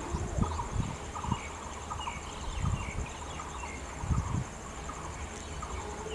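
Steady, high pulsing insect drone with birds chirping repeatedly over it, and a few low thumps.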